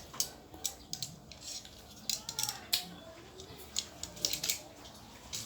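Crisp, irregular crunches of cucumber slices being bitten and chewed, a dozen or so sharp crunches.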